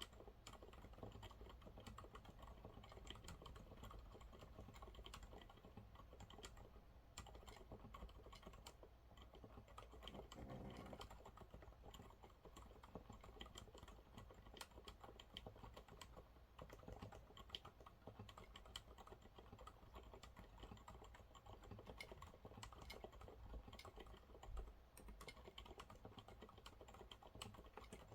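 Continuous typing on a Monsgeek MG108W mechanical keyboard with TTC silent brown switches, in quiet, muted, irregular keystrokes, with one louder tap about three-quarters of the way through.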